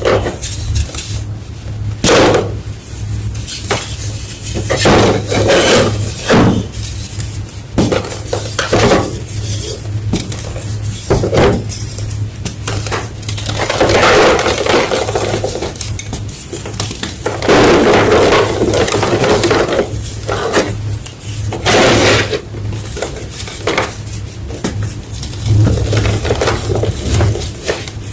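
Big slab of gym chalk (magnesium carbonate block) being crunched and broken: sharp cracks as pieces snap off, between longer stretches of dense, gritty crunching.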